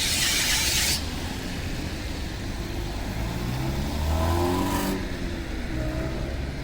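City street traffic on a wet road: a burst of hiss in the first second, then a car's engine rising in pitch as it accelerates past.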